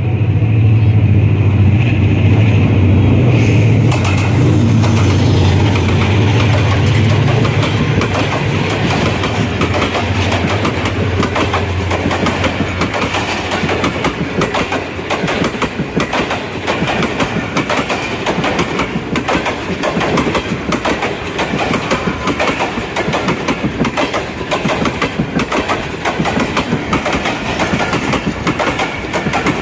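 ZCU-30 diesel-electric locomotive's engine running under load as it hauls a passenger train past, a heavy low drone that fades away after about twelve seconds. The passenger coaches follow, their wheels clicking over the rail joints in a steady clickety-clack.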